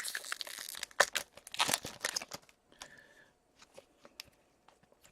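Trading card pack wrapper and cards being handled: crinkling and rustling for about two and a half seconds, then a few faint clicks and taps.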